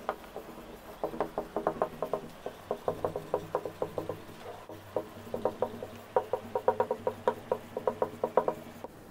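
Dry-erase marker squeaking on a whiteboard during handwriting: a quick run of short squeaks, one per pen stroke, with a few brief pauses between words.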